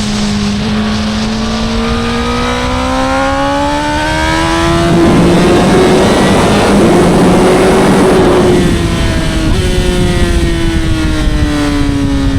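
Honda CBR1000RR's 999cc inline-four engine and exhaust under acceleration, its pitch climbing steadily for about five seconds. A loud rushing noise then runs over the engine for a few seconds. Near the end the pitch drops abruptly and keeps falling as the throttle comes off.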